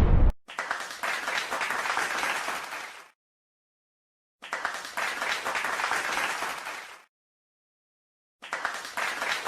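Applause sound effect of a crowd clapping, played three times in a row, each burst about two and a half seconds long with dead silence between them.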